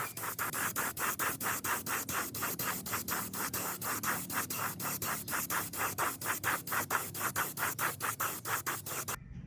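Rapid back-and-forth hand sanding, about four to five even strokes a second, which stops abruptly near the end.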